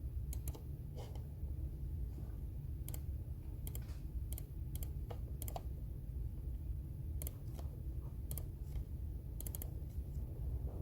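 Typing on a computer keyboard: irregular key clicks, some in quick runs of two or three, over a steady low hum.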